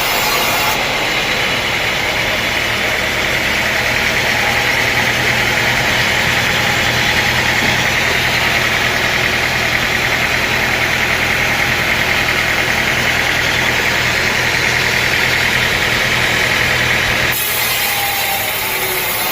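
Sawmill machinery running steadily under engine power, with a constant whine over a low hum. The sound changes abruptly just under a second in and again about two seconds before the end.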